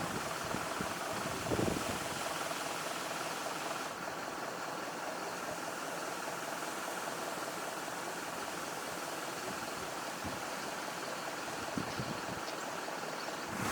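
An engine idling steadily, with an even rushing noise over it.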